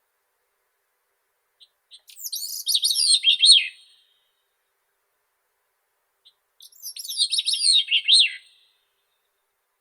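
Grey-cheeked thrush singing two songs a few seconds apart. Each is a quick run of thin, high notes that spirals downward in pitch, opening with a faint note or two and ending lower.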